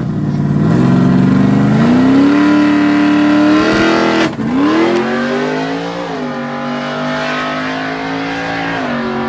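Drag-racing vehicle's engine accelerating hard, its pitch climbing, then breaking off and dropping sharply about four seconds in as it shifts gear and climbing again. The pitch drops again at the next shift and settles into a steady high note that dips near the end.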